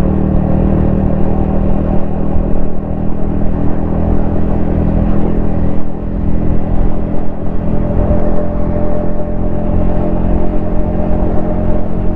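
Yamaha XSR155's single-cylinder 155 cc engine running at a steady riding speed, with a brief drop in loudness about six seconds in and the engine pitch rising slightly a little later.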